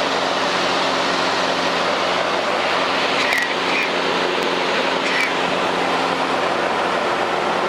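Cabin drone of a single-engine Cessna light airplane in cruise: the piston engine and propeller run at a steady, unchanging pitch.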